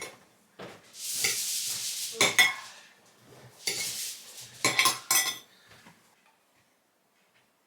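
Cutlery and dishes clinking and scraping as food is served. There are sharp clinks about two seconds in and again around five seconds, with longer scrapes between them, and it dies away after about six seconds.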